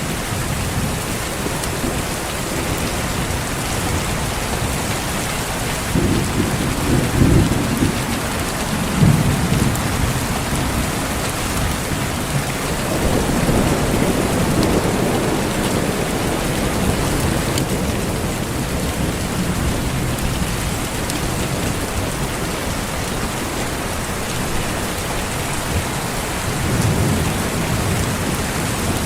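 Steady heavy rain with low rolls of thunder. A rumble swells about six seconds in and another just after, a longer roll builds in the middle, and a last one comes near the end.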